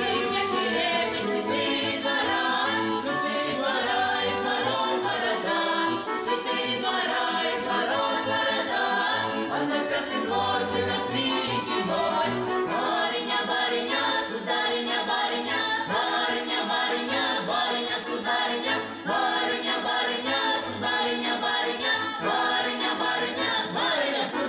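A folk ensemble singing a Russian folk song together, accompanied by accordion.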